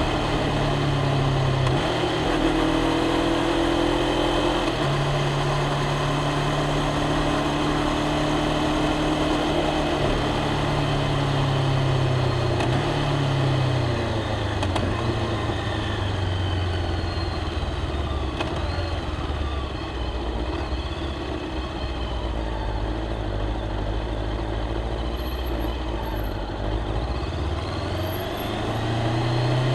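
Honda CBR500R's parallel-twin engine, heard while riding at city speed. The engine note holds fairly steady at first, drops to a lower, slower note about 13 seconds in as the bike slows, and rises again near the end as it accelerates.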